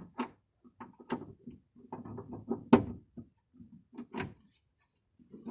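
Scattered clicks, knocks and rubbing from a car's side window being rolled down from inside the car, with one sharp click a little under three seconds in.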